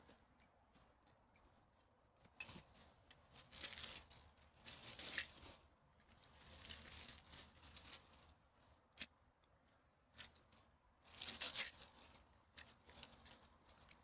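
Rustling and crinkling from litter being gathered off the forest floor, coming in irregular bouts with a couple of sharp clicks between them.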